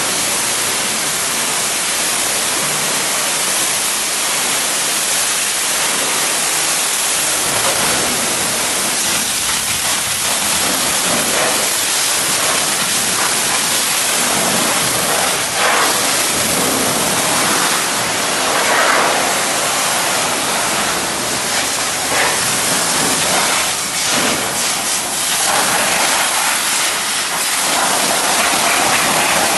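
Water spraying hard from a car-wash hose onto a car, a steady loud hiss whose tone shifts now and then as the jet moves.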